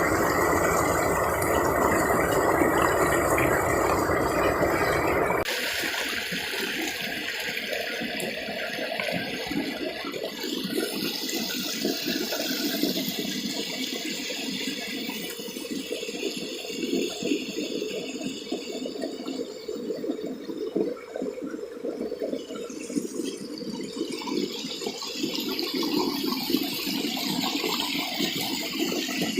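Stream water rushing and splashing. About five seconds in, the sound changes abruptly from a dense, heavy rush to a lighter, choppier splashing that continues.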